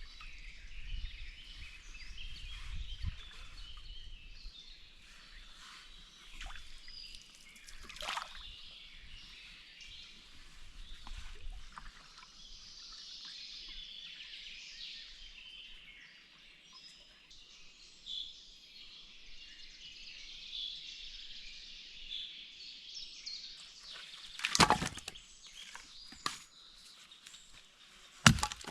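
Woodland birds chirping and singing with some low rumbling noise and faint water slosh in the first half, then two sharp knocks, a few seconds apart, near the end.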